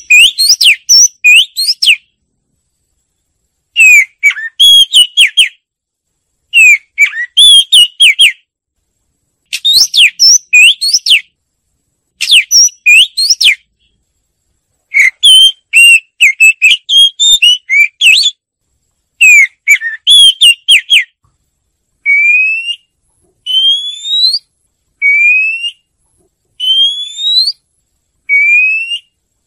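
Oriental magpie-robin singing: short phrases of clear whistled notes with quick up-and-down glides, repeated every two to three seconds. In the last third they give way to a series of single rising whistles, about five of them, each roughly a second long.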